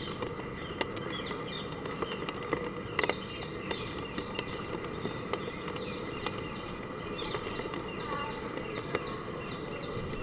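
Steady hard rain, with sharp clicks of drops hitting, and many short high chirps over it.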